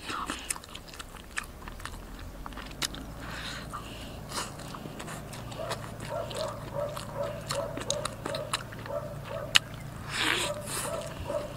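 Gnawing and chewing on a braised donkey bone: wet mouth sounds broken by many small sharp clicks and crunches, a little louder near the end.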